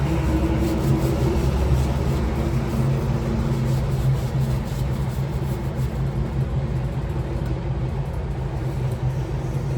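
Steady low engine drone, with a few light knocks in the first few seconds.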